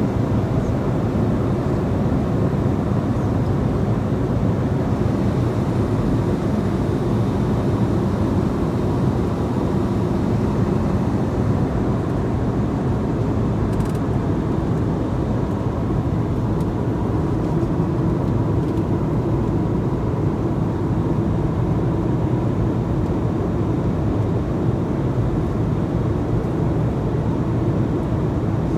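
Airliner cabin noise: a steady, low-pitched rumble of jet engines and airflow, with a faint steady tone above it.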